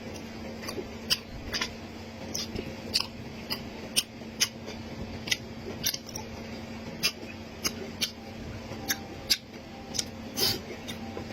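Close-miked eating: sharp, irregular crunches and crackles of chewing and biting, about one or two a second, over a steady low hum.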